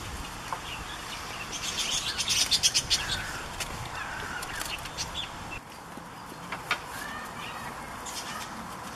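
Birds chirping, with a quick run of sharp, rapid chatter about two seconds in and a few short chirps after it.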